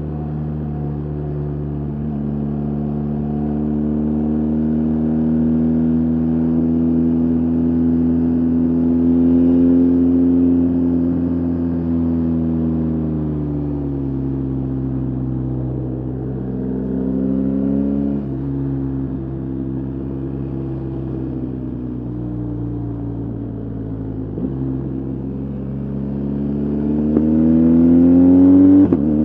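BMW R 1250 GS Adventure's boxer-twin engine under way, its revs slowly building, then easing off with steps down in pitch at gear changes, and climbing steeply near the end before dropping sharply at a shift.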